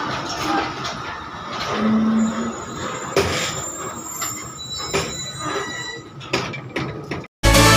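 Passenger train coaches rolling slowly into a station, with a thin, high metallic squeal from the running gear and scattered clanks over the rumble. Near the very end it cuts abruptly to electronic dance music.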